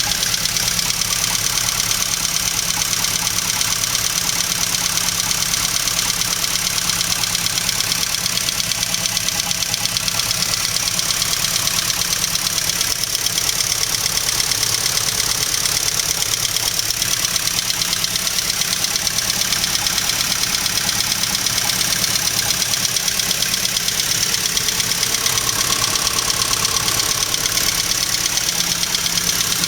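BMW 320si's 2.0-litre four-cylinder engine idling steadily with a fast, even pulse after a cold start. The engine has a fault that the seller says needs attention.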